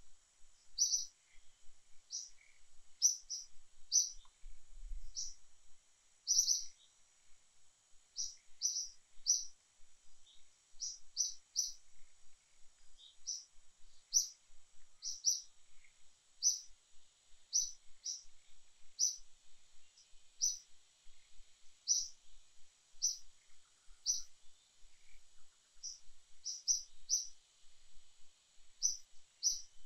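A bird calling with short, high chirps, singly or in quick runs of two or three, every second or so, over a faint steady high hiss.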